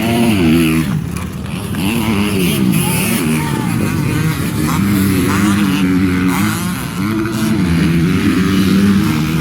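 Motocross dirt bike engines revving hard and shifting, their pitch climbing and dropping again and again.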